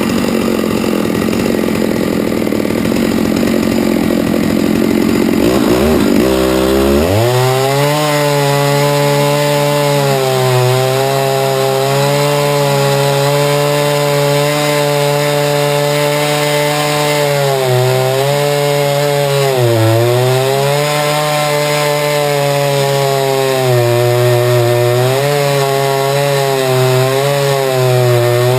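Chainsaw on a chainsaw mill cutting a hard maple log lengthwise. The engine runs lower and rougher for about six seconds, then rises to full throttle and holds a steady high pitch under load, dipping briefly several times as the chain bogs in the cut.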